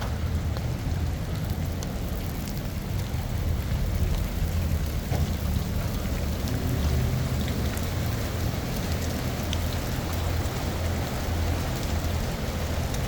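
Steady rain falling, with scattered small drop ticks over a constant low rumble.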